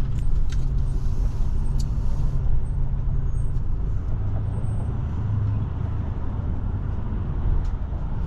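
Steady low drone of a Forest River Forester motorhome's engine and tyres while driving on the road, heard from inside the cab, with a few light ticks or rattles in the first couple of seconds.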